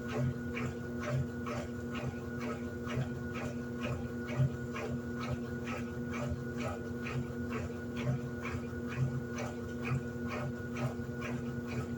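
Electrolux LED14 top-loading washing machine running, a steady motor hum under a regular beat of about three short strokes a second.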